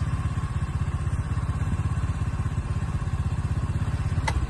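Motorcycle engine idling close by, a rapid even low putter, with one sharp click near the end.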